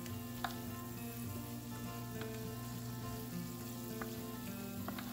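Shrimp, bacon, onions and steak sizzling in a hot skillet as they are stirred together with a spatula, with a few sharp ticks, the strongest about half a second in.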